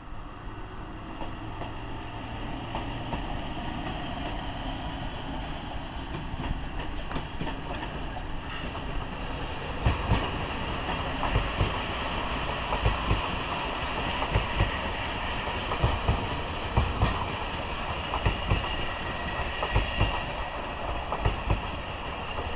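A train passing close by. A steady rumble gives way, about ten seconds in, to a run of heavy knocks as the wheels cross rail joints, with a thin high whine over it in the second half.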